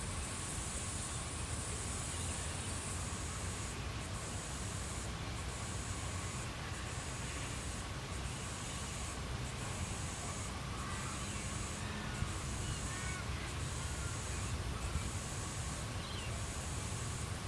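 Australian bush ambience at dusk: insects trill in a high band that pulses on and off about every second and a half, over a low rumble of wind. A few faint bird calls come through in the second half.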